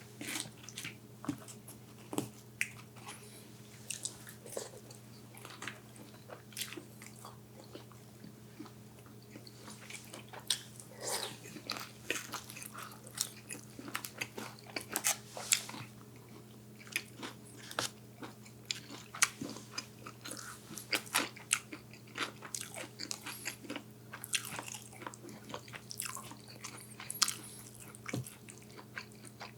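A person eating close to the microphone: irregular bites and chewing with crisp crunches and crackles, over a faint steady low hum.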